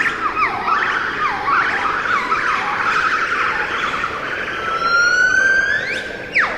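A chorus of wild animal calls: many overlapping whistle-like notes that swoop down and back up in pitch a couple of times a second, with one long note rising steadily and then shooting up sharply near the end.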